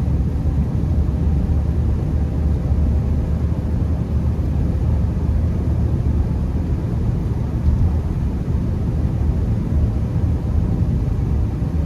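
Steady low rumble of a Honda Accord driving on snowy roads, heard from inside the cabin: engine and tyre noise with no sudden changes.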